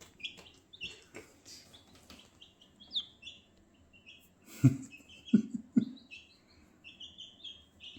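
Baby chicks peeping: a steady run of short, high chirps. Three low knocks come about halfway through, louder than the peeping.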